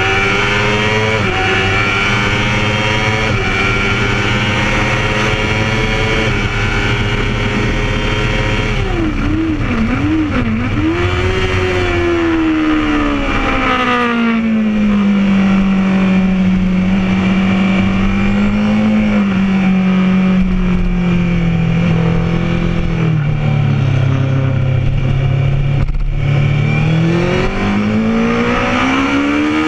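Honda CBR1000RR inline-four engine heard from the rider's seat at racing speed, with wind rushing over the bike throughout. Early on it revs up with several quick gear changes. The pitch then drops away and holds low and steady, stepping down a couple of times, before it climbs hard again near the end as the bike accelerates.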